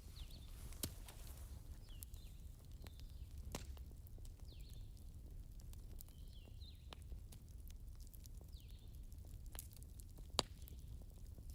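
Campfire crackling: scattered sharp wood pops and ticks over a steady low rumble, with one loud pop about ten seconds in.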